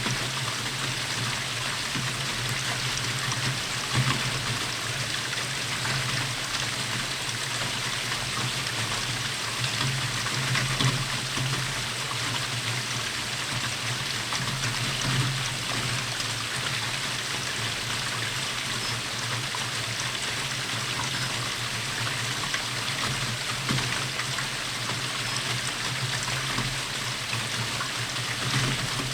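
Steady rainfall, an even hiss with scattered sharper drips and ticks.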